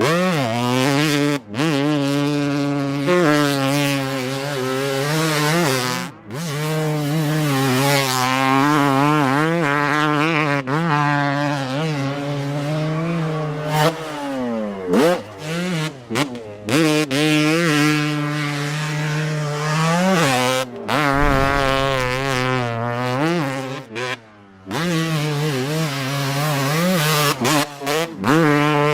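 Two-stroke dirt bike engine running and revving, its pitch rising and falling over and over, with several abrupt short breaks in the sound.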